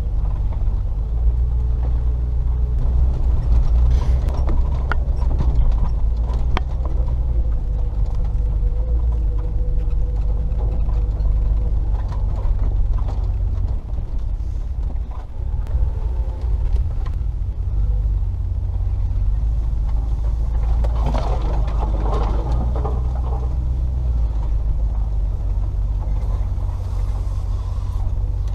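Range Rover P38's 4.0-litre V8 running at low speed over a rough off-road track, a steady low rumble with scattered knocks and rattles from the bumpy ground. About three-quarters of the way through there is a couple of seconds of scraping noise.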